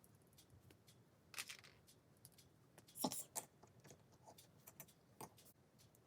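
Near silence broken by a few faint clicks and rustles of plastic LEGO pieces being handled, the loudest about three seconds in.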